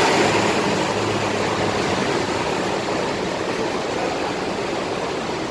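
A bus engine running as the bus moves past, strongest at the start and slowly fading, under a steady hiss of rain.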